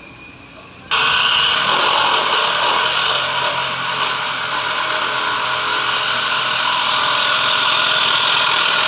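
A power tool switches on suddenly about a second in and runs steadily at full speed with a high, rough whir.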